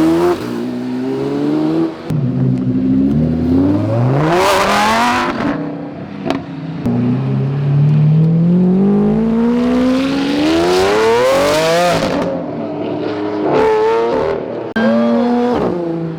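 High-performance car engines revving and accelerating hard through the gears. Each run climbs steadily in pitch, then breaks off and drops at a gear change, several times over.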